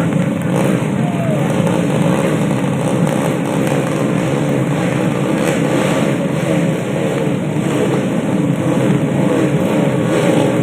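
Several racing motorcycle engines running and revving together, their pitches rising and falling over one another without a break.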